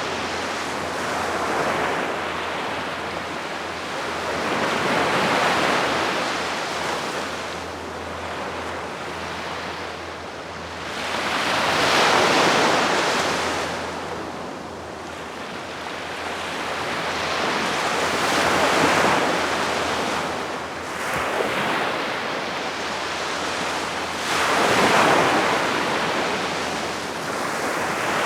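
Gentle sea waves breaking and washing up on a sandy beach, swelling and fading every few seconds, with some wind on the microphone.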